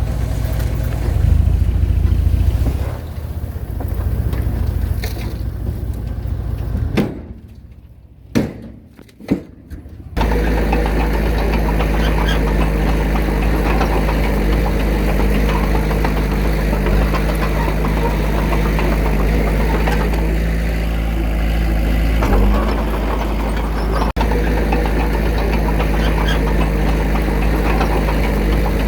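Diesel engine of heavy earth-moving machinery running. About seven seconds in the sound drops away for some three seconds, with two short sharp knocks. Then a steady engine note with an even low hum comes back abruptly and holds.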